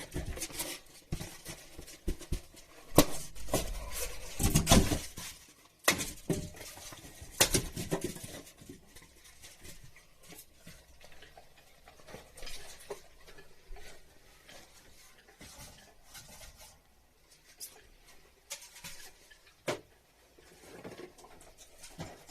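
Irregular knocks, clicks and rustling of parts and tools being handled during air-conditioner installation work. The loudest knocks come about three to five seconds in, with a single sharp click near the end.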